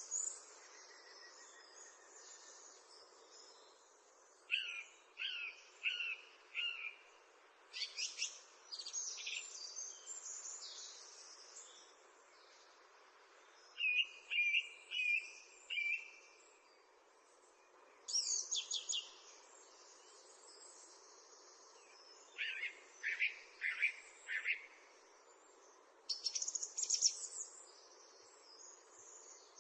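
Songbirds singing and chirping in short phrases of high notes and trills, separated by pauses of a second or more, over a steady background hiss.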